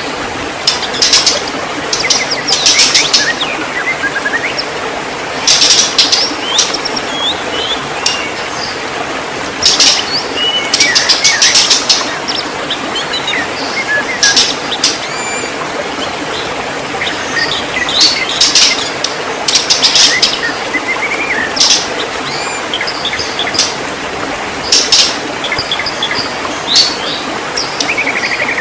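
White-rumped shama singing: bursts of sharp, high rattling chirps every second or two, mixed with shorter whistled notes, over a steady background hiss.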